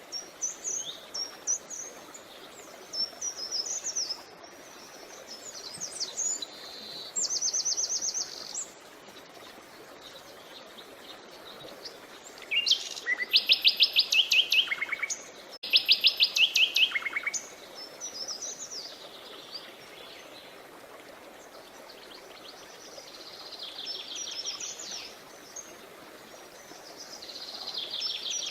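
Wild songbirds singing over the steady rush of a creek. Short phrases of rapid trilled notes recur throughout, and the loudest two trills come about halfway through.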